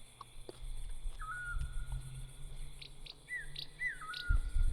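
Songbirds chirping in short, separate calls, a few at a time, over a low rumble on the microphone that grows louder near the end.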